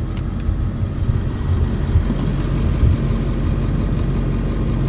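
Truck engine running steadily, a dense low sound with a steady hum joining in about two seconds in.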